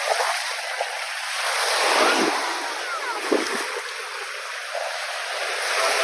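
Caspian Sea waves washing onto the shore, a steady wash of surf that swells twice, about two seconds in and again about three and a half seconds in.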